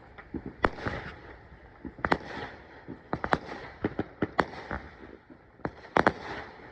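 Fireworks going off: a run of irregular sharp pops and bangs, a few louder than the rest, with the loudest pair near the end.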